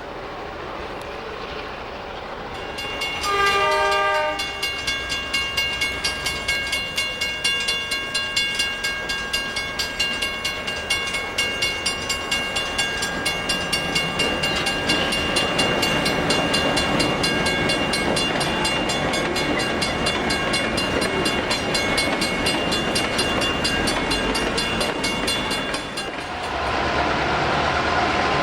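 An Australian diesel locomotive sounds a short multi-note horn blast a few seconds in. Then its train passes, with a steady rhythmic clickety-clack of wheels over rail joints, about two to three beats a second, and a thin high whine above it. Near the end the clatter gives way to a steadier, lower running sound.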